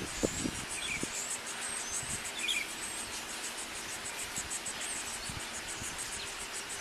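Insects chirping outdoors: a steady, high-pitched pulsing call repeating several times a second, with a couple of brief bird-like chirps and a few soft knocks near the start.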